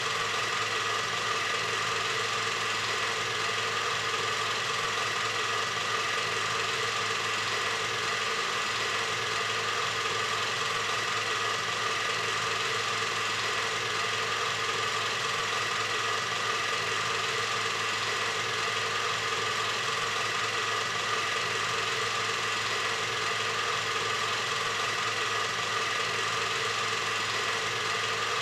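8mm film projector running: a steady mechanical whir and rattle with a few constant tones, unchanging throughout.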